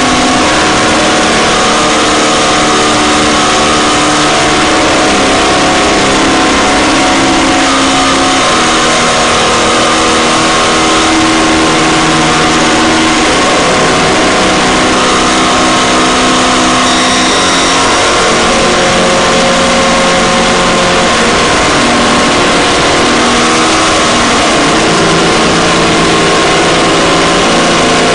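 Harsh noise drone music: a loud, unbroken wall of dense noise with held low droning tones that shift in pitch every few seconds.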